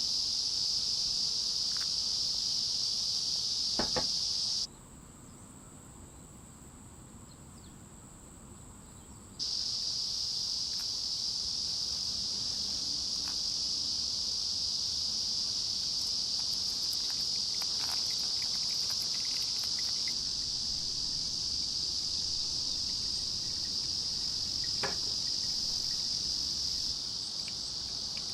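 Insects singing in a steady, high continuous chorus. About five seconds in it drops out abruptly, leaving only faint background, and returns just as abruptly about four seconds later; a few faint clicks sound over it.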